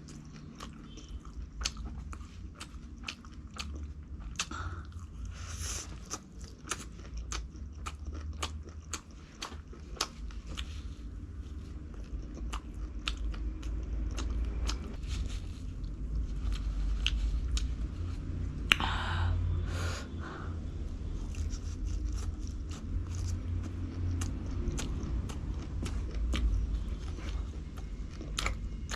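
Close-miked chewing and biting of food: a continuous run of sharp wet clicks and crunches from the mouth, with a longer, louder crunch about two-thirds of the way through.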